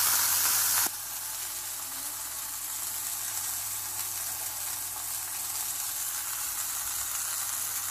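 Hamburger patty sizzling in a frying pan on the stove, loud for about the first second, then quieter and steady.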